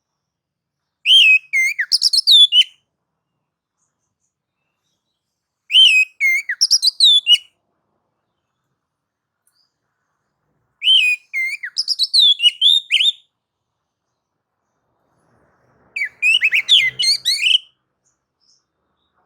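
Oriental magpie-robin (kacer) singing in four short phrases of rapid whistled and warbled notes, each a second or two long, with pauses of a few seconds between. This is excited song of the kind keepers play to provoke other kacer into singing and display.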